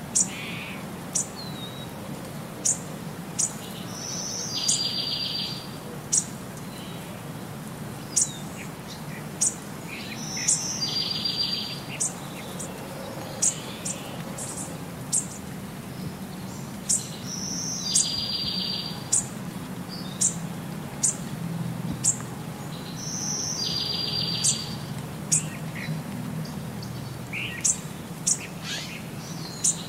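Birdsong: sharp high chirps about once a second, with a short buzzy trill every six seconds or so, over a steady low hum.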